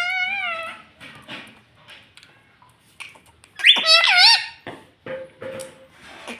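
Pet ringneck parrot calling: a drawn-out, wavering call at the start, then a sharp, high squawk with quick pitch jumps about three and a half seconds in, with soft clicks in between.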